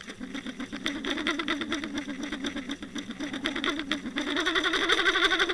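Small engine running with a wavering pitch and rapid ticking, getting a little louder and higher about four seconds in.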